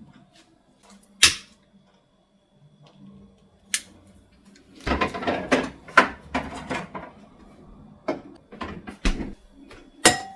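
Household objects being handled: scattered sharp clicks and knocks, with a busier stretch of clattering and rustling about halfway through.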